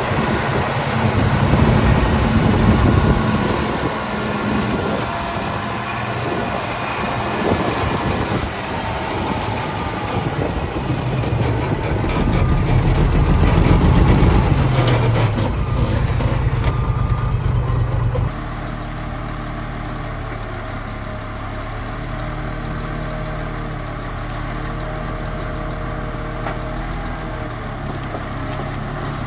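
Heavy diesel construction machinery working: a rough, uneven engine noise that rises and falls, cutting off abruptly about two-thirds of the way through to a steadier, quieter engine hum.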